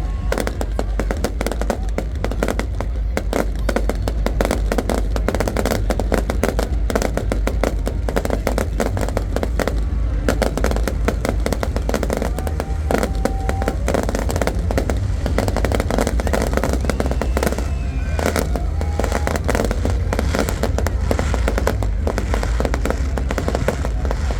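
Fireworks display: a dense, continuous barrage of rapid crackling and popping bursts, unbroken over a steady low rumble.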